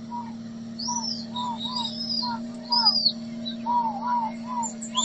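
Bird-like chirping: short arching whistled notes repeating a few times a second, with higher arching notes above them, over a steady low hum.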